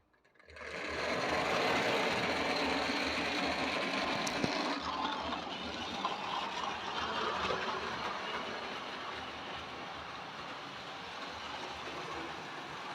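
Tri-ang OO-gauge Princess Elizabeth model locomotive, freshly cleaned and restored, starting off and running round the track with its electric motor whirring and the wheels running on the rails. It starts about half a second in, grows louder over the next second or so, then slowly fades. A single click about four seconds in.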